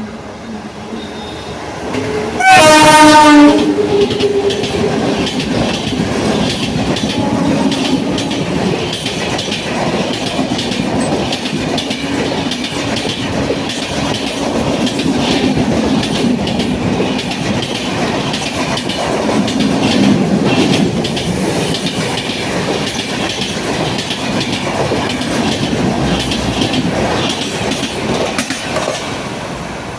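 Express train passing through a station at speed: the locomotive's horn sounds once, loud, for about a second near the start, then the coaches run past with a steady rumble and a rapid clatter of wheels over the rail joints.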